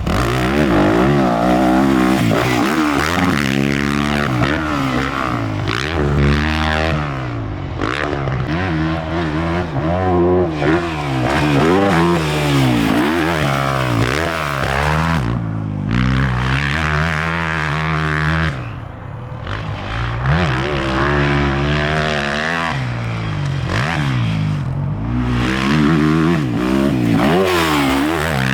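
Dirt bike engine ridden hard around a motocross track, its pitch climbing and falling again and again as the throttle is opened and shut. It briefly drops off a few times.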